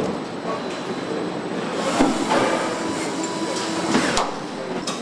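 Truck assembly-plant floor noise: a steady mechanical rumble with metallic knocks, one about two seconds in and another just after four seconds.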